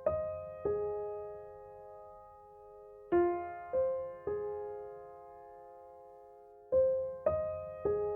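Slow, gentle background piano music: sparse notes struck in small groups of about three, each ringing out and fading before the next group, roughly every three and a half seconds.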